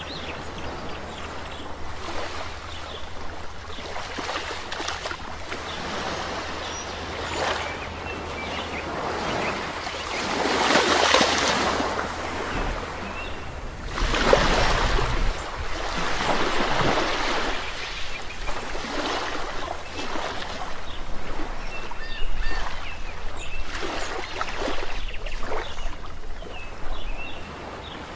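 Sea waves washing onto a shore, swelling into louder surges every few seconds, with faint short bird chirps over them.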